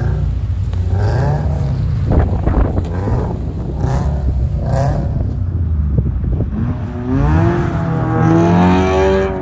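Subaru Impreza's flat-four engine revving up and down repeatedly, with a long climb in pitch near the end.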